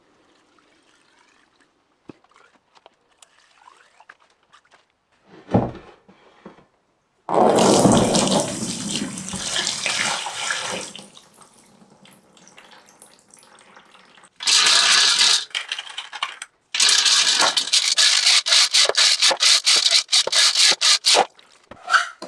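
Water spraying in loud, hissing bursts, the later ones cut into quick repeated spurts, after a few light knocks and a dull thud.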